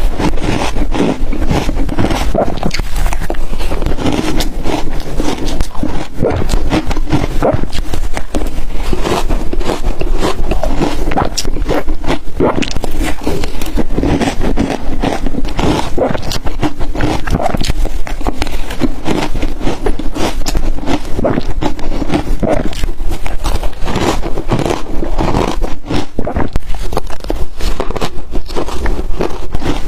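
Close-miked bites of ice crunching and crackling between the teeth, one dense crunch after another with no pause.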